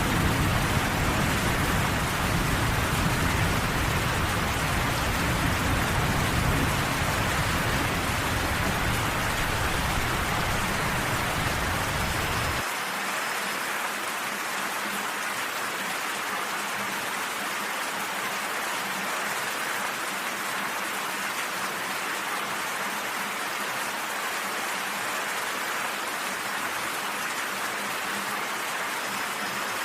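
Steady rain falling. A low rumble runs underneath and cuts off suddenly about halfway through, leaving only the rain.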